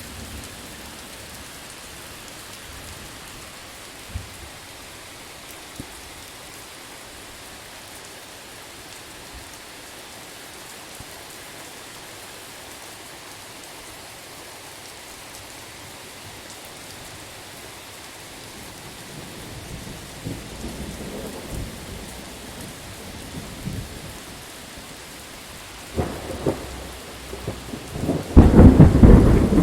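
Steady rain falling, with a thunder rumble building about two-thirds of the way in and a loud clap of thunder near the end that keeps rumbling.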